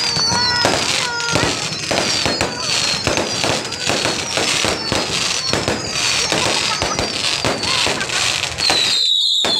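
Fireworks display: a dense run of bangs and crackling from bursting aerial shells, laced with repeated high falling whistles. About nine seconds in the bangs stop and a cluster of falling whistles goes on.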